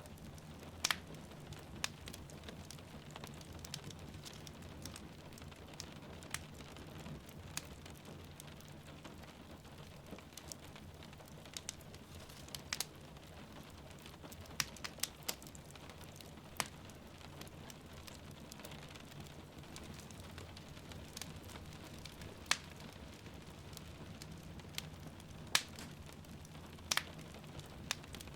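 Wood fire crackling, with irregular sharp pops every second or two, over a steady hiss of rain.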